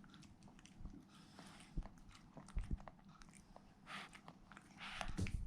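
Faint sounds of a person eating: soft biting and chewing with scattered small clicks, a little louder near the end.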